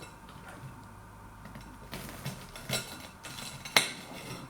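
Cutlery on a plate: a few light clinks and scrapes, then a sharper click near the end.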